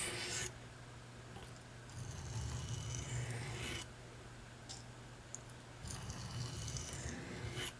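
Steel knife blade drawn slowly across the 400 side of a Norton IB8 combination oilstone in long scraping strokes of about two seconds each, three in all, over a steady low hum. It is honing the reverse side of the edge to raise a burr.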